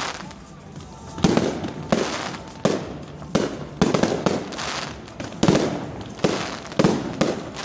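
Fireworks display going off: a quick, irregular run of loud bangs, about a dozen in a few seconds, each leaving a short echoing tail.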